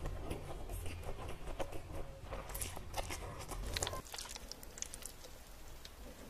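Close-miked eating sounds: chewing a mouthful of noodles, with many sharp, wet mouth clicks. About four seconds in, it cuts to a quieter recording with softer, sparser eating sounds.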